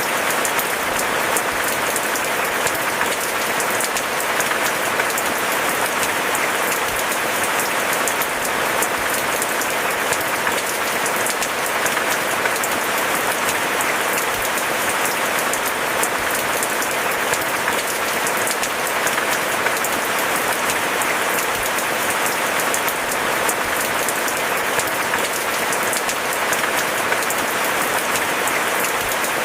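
Steady rain falling, a dense even patter of countless drops without a break or a rumble of thunder.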